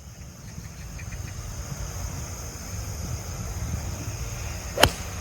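Crisp click of a 5-iron striking a golf ball off the tee, about five seconds in, over a steady low rumble of wind on the microphone.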